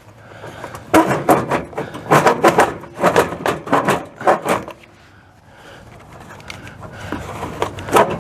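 Knocking and scraping as the metal case of an RV furnace is pushed and bumped into its compartment, a dense run of irregular knocks for several seconds and then quieter shuffling.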